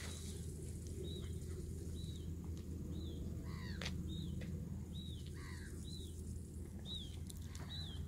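Birds calling: short high chirps, each rising and falling in pitch, repeating about once a second, with a couple of longer falling calls in the middle, over a steady low outdoor rumble.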